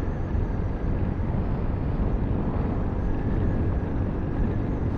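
Sinnis Terrain 125cc motorcycle running steadily under way, with road and wind noise.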